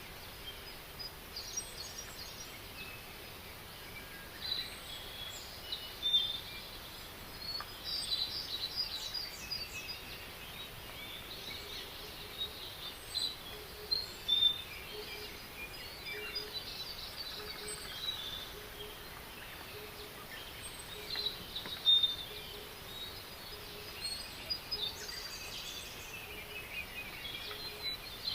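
Several small birds chirping and trilling in short, scattered bursts over a steady background hiss.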